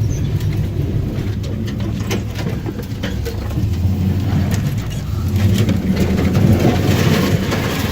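Lifted pickup truck's engine droning low as it drives through deep water, with scattered knocks and clicks and a hiss of splashing that builds from about five seconds in.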